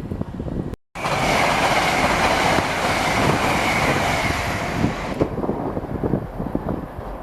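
A train passing close through the station at speed: a loud rushing of wheels on rail and moving air that cuts off sharply about five seconds in, leaving a lower rumble.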